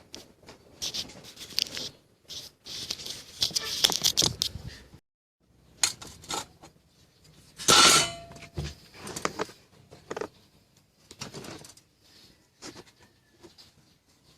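Irregular clicking, scraping and clattering of small hard parts being handled while a pop-up toaster is worked on. The loudest clatter comes about eight seconds in.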